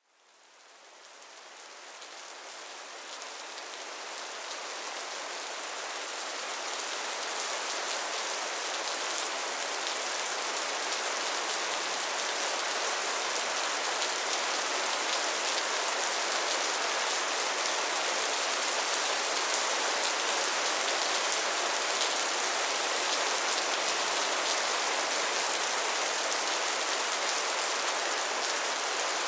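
Soft rain falling steadily, a dense even hiss of drops with faint fine patter, fading in from silence over the first several seconds.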